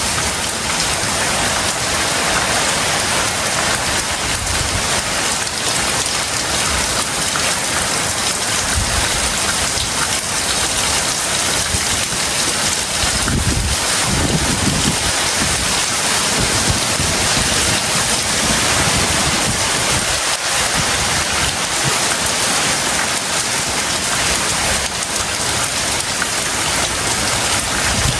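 Heavy rain pouring steadily in a tropical storm, with a few brief low rumbles, the strongest about halfway through.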